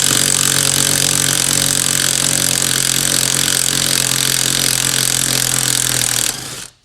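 Power tool running steadily at full speed on the last, stubborn brake booster stud nut, with a strong hiss over a low hum, then cutting off sharply near the end.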